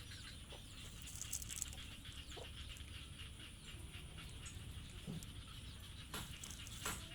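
Outdoor ambience: a steady high hiss over a low rumble, with a few short bird chirps and several sharp clicks, the loudest about a second and a half in and near the end.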